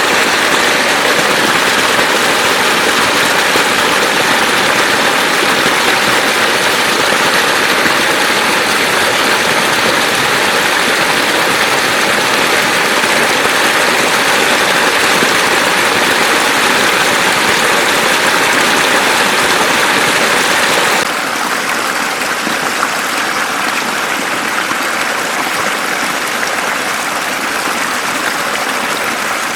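Floodwater rushing, a loud, steady wash, with a faint steady hum under it. About two-thirds of the way through, the water sound drops a little and changes character.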